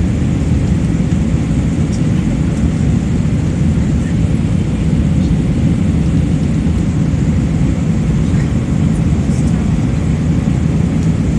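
Steady low rumble of engine and airflow noise inside an Airbus A320 cabin in flight, with a faint high-pitched whine above it.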